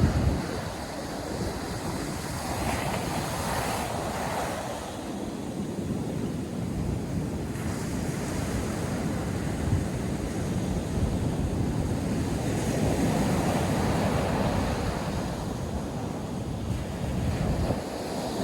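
Ocean surf breaking and washing on a beach, swelling a couple of times, with wind buffeting the microphone in low rumbles.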